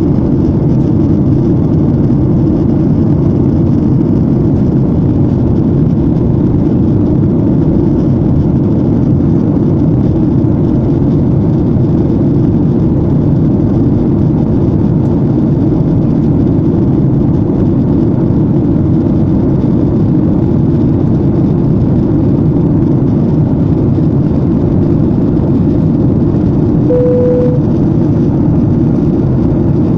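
Airliner cabin noise in flight: a loud, steady low rumble of engines and rushing air, unchanging throughout. Near the end a short single tone sounds for under a second.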